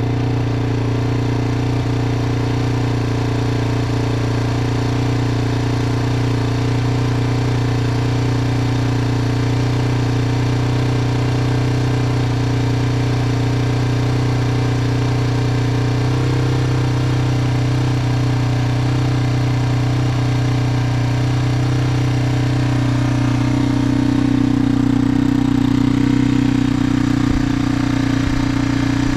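1999 Yamaha TTR225's single-cylinder four-stroke engine idling steadily after a cold start with the choke pulled out all the way. Its note shifts slightly about 16 seconds in, and it gets a little louder about 23 seconds in.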